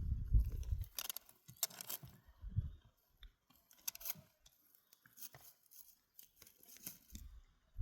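Scattered crisp snipping and tearing sounds, one every second or so, after a low rumble in the first second.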